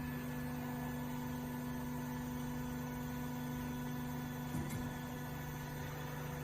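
Steady electrical machine hum made of several fixed tones over a low background noise, with a faint tap about two-thirds of the way through.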